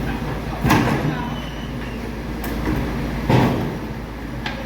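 MAN TGS 26.320 garbage truck's diesel engine running steadily, with two loud bangs, one about a second in and one a little past three seconds, and a sharp click near the end.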